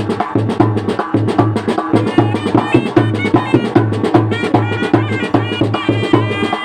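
Traditional Indian festival music: a fast, steady drumbeat with a high wavering melody line coming in about two seconds in.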